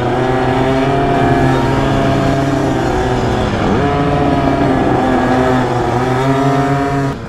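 Dirt bike engine running hard. Its pitch drops and climbs back as the throttle is rolled off and opened again about halfway through, and the sound cuts off suddenly near the end.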